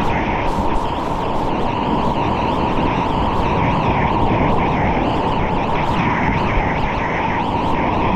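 Loud, steady rush of whitewater from a river rapid, with frequent short splashes.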